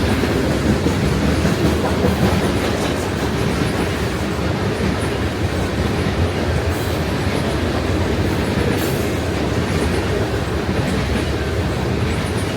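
A train rolling past on the track, its wheels running steadily over the rails.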